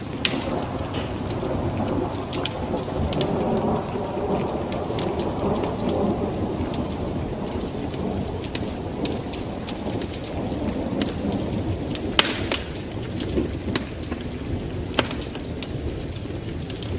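Wood fire crackling in a fireplace, with sharp irregular pops over a steady low rushing sound.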